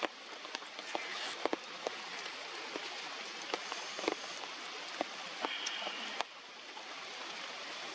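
Rain falling steadily, an even hiss with scattered sharp taps and drips of drops hitting nearby surfaces; it gets a little quieter about six seconds in.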